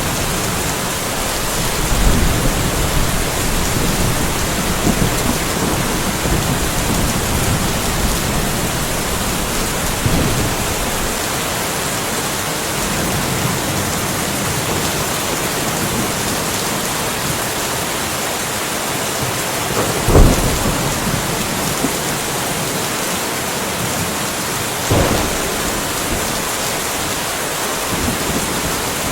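Steady rain falling in a light thunderstorm, a constant hiss, with low thunder rumbling through the first part. A few short low thumps stand out, the loudest about two-thirds of the way through.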